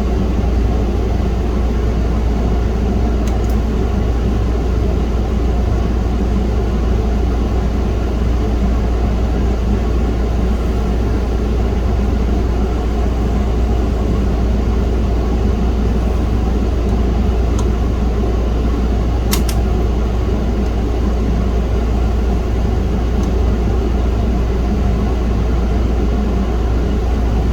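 Steady machine hum with an even hiss and a strong low drone, unchanging throughout, with a couple of faint small clicks.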